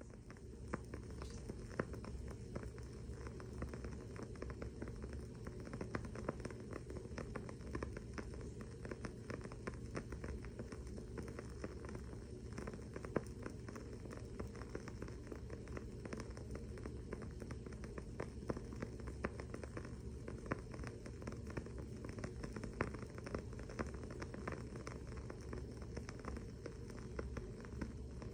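Wooden-wick candle crackling: a dense, irregular run of small pops and snaps, over a steady low hum.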